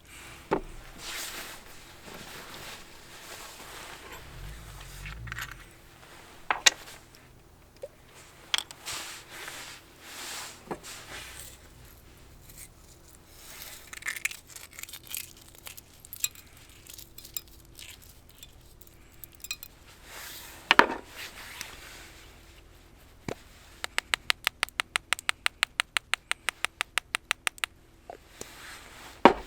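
Camp cookware and utensils clinking and scraping in scattered, separate knocks. Near the end comes a fast, even run of sharp clicks, about nine a second for some three and a half seconds.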